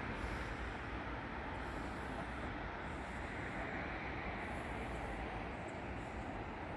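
Steady low rumble and hiss of railway station ambience, with no distinct event standing out.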